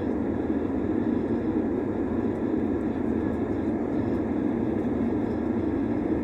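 Steady cabin noise of an Airbus A320-200: an even hum of engines and airflow heard from a passenger seat, with no change through the stretch.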